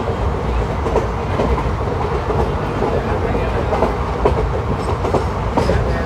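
ICF passenger coaches running along the track: a steady rumble of wheels on rail with scattered clacks.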